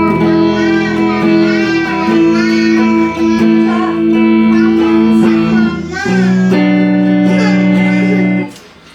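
Electric guitar played through a Marshall MG30DFX amplifier under test after a repair: a held chord with bending notes over it, changing to another chord about six seconds in, then stopping just before the end.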